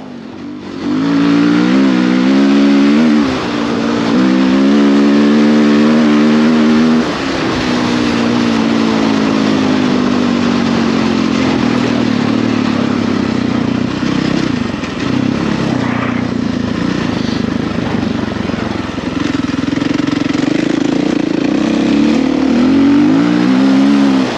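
Husqvarna FE450's single-cylinder four-stroke engine revving up and dropping back twice as the bike accelerates through the gears, then falling away slowly and running steadily, revving up again near the end.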